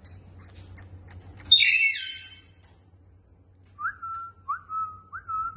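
Pet parrot giving one loud, harsh squawk, then whistling three short notes, each a quick upward flick then a held tone. A few faint clicks come before the squawk.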